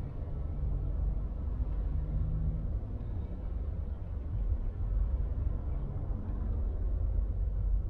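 A car driving along a city road, giving a steady low rumble of engine and road noise with no sudden changes.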